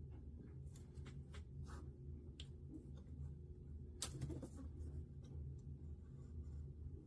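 Paper being cut and handled: faint scraping with scattered light clicks, and a sharper click about four seconds in, over a steady low hum.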